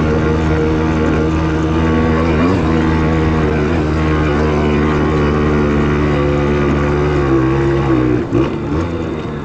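Simson S51 moped's 50 cc two-stroke single-cylinder engine running at a steady speed while riding, then briefly dipping in pitch and loudness about eight seconds in.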